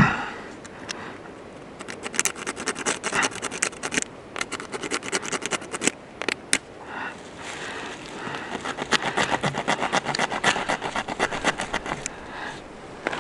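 Rapid, closely spaced scraping strokes in two runs of about four seconds each, with a short pause between.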